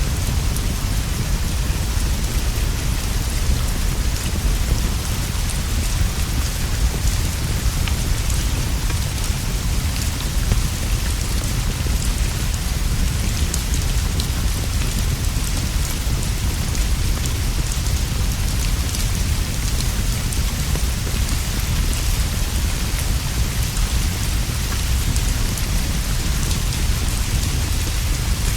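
Steady heavy rain falling on leaves and a straw roof, an even hiss with faint scattered drop ticks, over a continuous deep low rumble.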